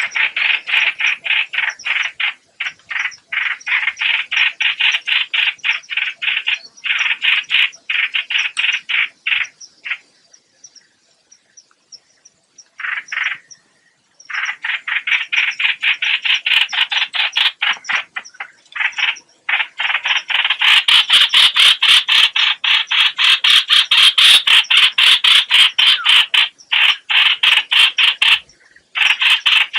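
Hoạch hoạch bird's lure call: long runs of rapid, harsh, rattling notes, about five a second, with a pause a little after a third of the way through. The runs come back louder and faster in the last third.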